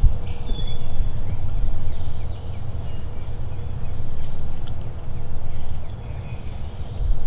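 Wind rumbling on the microphone, with a few faint, short high bird calls.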